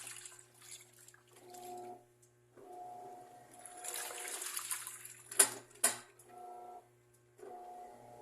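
Washing machine in its wash cycle: the motor starts and stops every second or so, humming with a steady tone, while the water sloshes. About five seconds in come two sharp, loud cracks half a second apart, the cracking noise the owner cannot explain.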